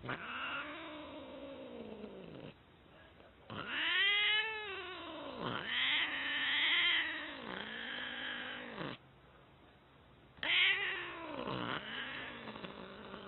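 A domestic cat yowling: about six long, drawn-out calls, each rising and then falling in pitch, the loudest about four seconds in. There is a pause after about nine seconds, then two more calls.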